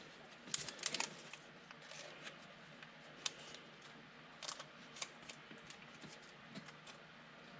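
Trading cards being handled: faint, scattered clicks and rustles of card stock, a small cluster about a second in and a few single ticks later.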